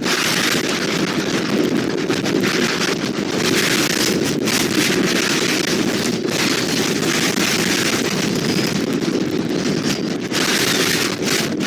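Strong wind buffeting the nest camera's microphone: a loud, steady rushing that swells and eases a little in gusts.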